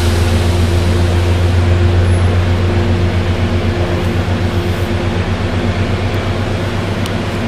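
Diesel locomotive of a Metro-North push-pull train, a GE P32 Genesis, running with a steady low drone and a higher tone that fades out about five seconds in. From about three seconds in, the drone takes on an even pulsing beat.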